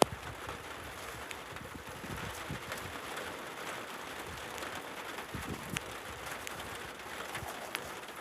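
Steady rain falling, an even hiss with scattered drops ticking sharply here and there.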